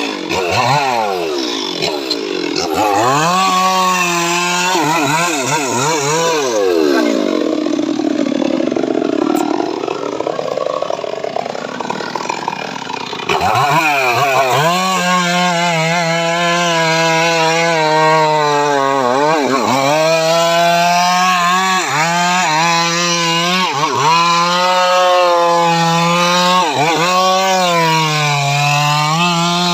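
Engine-driven homemade chainsaw sawmill rig cutting sengon wood. The engine runs at high revs; its pitch sags and wavers for several seconds about a quarter of the way in as it works under load, then holds high and steady with a few brief drops.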